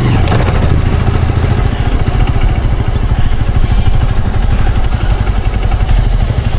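Motorcycle engine running with a steady, low, fast-pulsing rumble.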